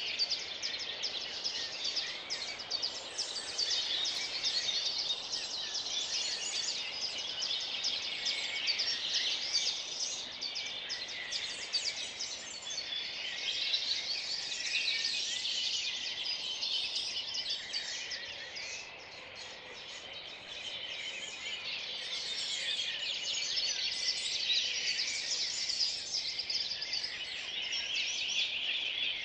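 Dawn chorus of many songbirds singing at once, a dense, continuous mix of overlapping chirps and trills, thinning briefly about two-thirds of the way through.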